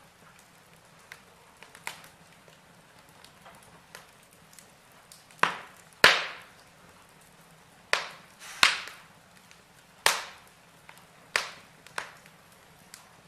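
Burning logs in a fireplace crackling, with scattered small ticks and about seven sharp pops, the loudest about six seconds in.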